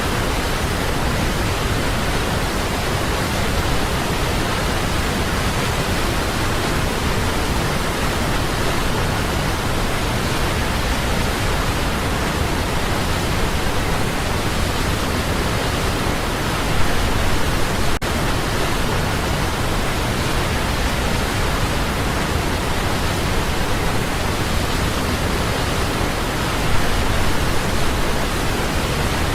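Waterfall: water falling steadily, making a constant, full rushing noise with no pauses.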